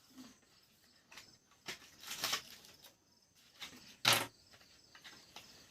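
Headphone box packaging being handled and rustled by hand. There are a few short rustles about two seconds in and a sharper, louder rustle or knock about four seconds in.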